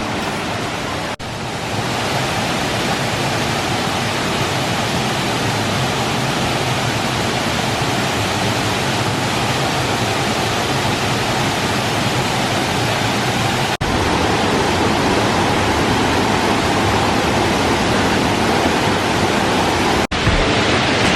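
Waterfall's rushing water, a loud, steady wash of noise, broken by three very brief dropouts where the clips change.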